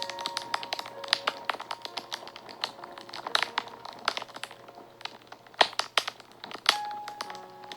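Wood fire crackling and popping in quick, irregular snaps, with a couple of louder pops a little past halfway. Soft held notes of background music sound underneath, with a new note coming in near the end.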